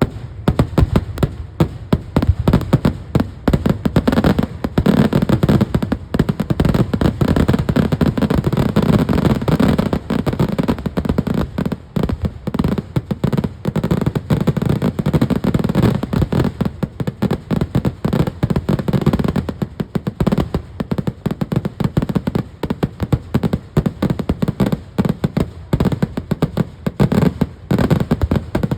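Kerala temple fireworks (vedikettu) going off in a continuous rapid barrage of loud bangs, so close together that they run into one another, over a low rumble.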